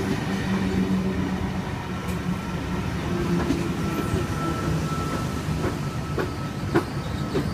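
V set intercity electric train running into the platform: a steady rumble with a faint high whine in the middle, and a few wheel clicks over the rail joints in the second half.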